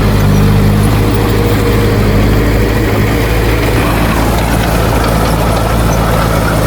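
A heavy diesel engine running steadily, its note shifting slightly about three seconds in.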